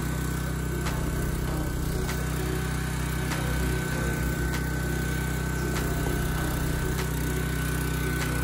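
An engine runs steadily at constant speed, with a thin steady whine above it and faint regular ticks.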